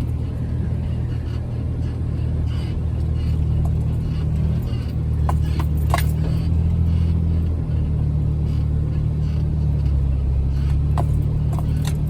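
Jeep Wrangler's engine running at low trail speed in a steady low drone, its pitch shifting slightly, with a few sharp clicks or knocks about halfway through and again near the end.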